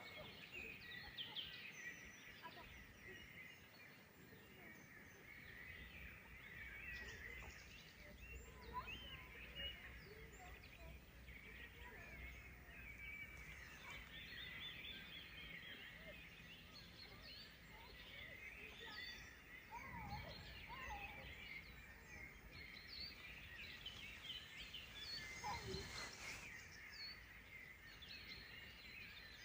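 Faint chorus of many songbirds, quick chirps and trills overlapping throughout, over a faint low rumble.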